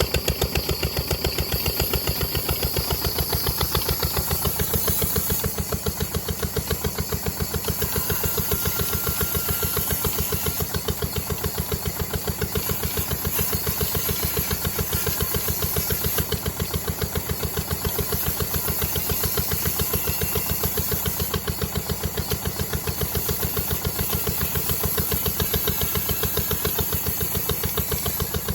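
Diesel engine running steadily at idle, with an even, rapid firing beat that does not change.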